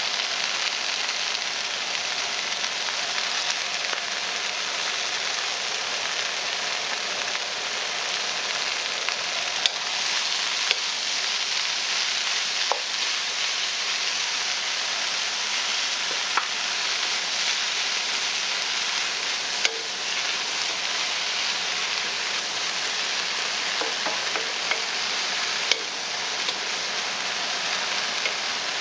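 Shredded cabbage and carrots sizzling steadily in a nonstick skillet over high heat while being stirred with a wooden spoon, with a few sharp clicks scattered through it.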